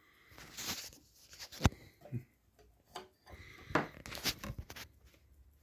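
Scattered clicks and knocks of a Pfaff 204 sewing machine being handled, with one sharp knock about a second and a half in and a cluster of clicks near the middle; the machine is not running steadily.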